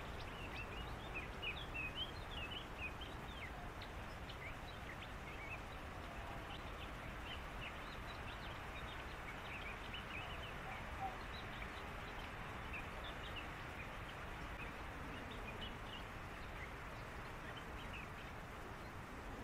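Many short, high chirps and squeaks from animals calling in the reeds, thickest in the first few seconds and scattered after, over a steady low hiss and rumble.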